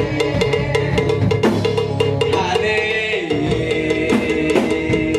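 Church choir's praise music between sung lines: band instruments playing over a steady drum and wood-block rhythm.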